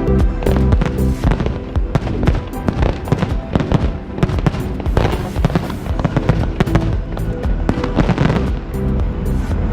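Fireworks going off in quick, irregular bangs and crackles over background music.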